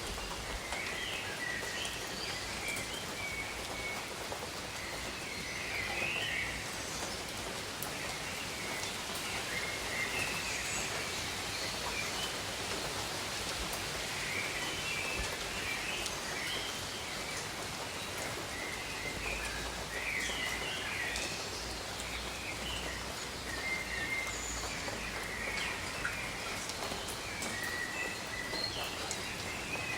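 Steady rain falling on jungle foliage, with birds calling repeatedly over it in short high chirps.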